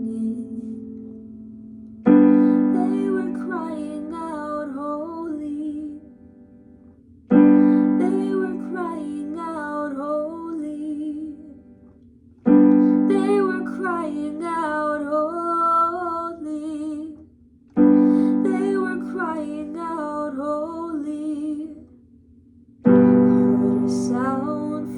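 Worship song on piano: a full chord struck about every five seconds and left to ring and fade, with a woman singing a slow, wavering melody over it.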